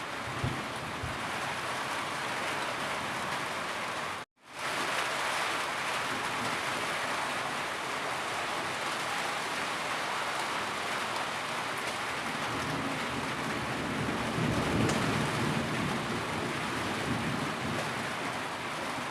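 Steady heavy rain falling, a dense even hiss. About four seconds in it cuts out for a moment and then fades back up. A low rumble swells briefly later on.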